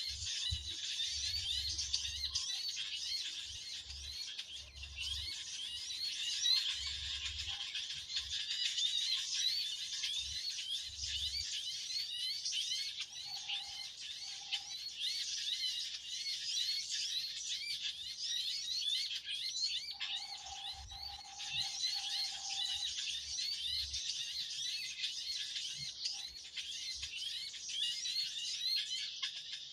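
Dense, noisy chorus of small birds chirping rapidly and continuously, with a few lower, steadier repeated notes from another bird partway through and again about two-thirds of the way in.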